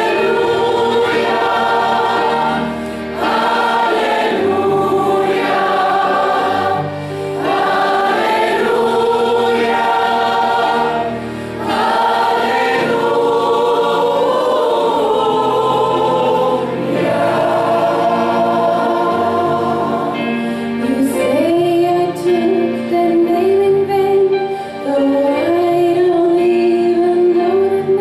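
Choir singing, several voices together.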